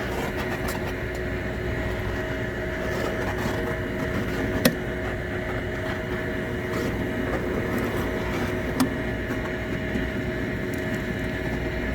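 Handheld gas torch flame running steadily as it burns cockroaches in a beehive. A sharp click comes about halfway through and a fainter one a few seconds later.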